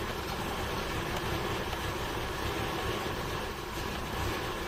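1981 Toyota Corona's four-cylinder engine idling, heard from inside the cabin, with an uneven low pulsing. The owner says its ignition condenser is stuffed, letting the spark jump at the points instead of the plugs.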